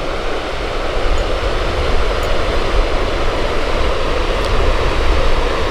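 Sol Duc Falls, a steady, loud rush of falling water with a deep rumble underneath.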